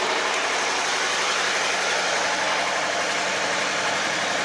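An engine idling steadily in the background, an even running hum with hiss that does not change.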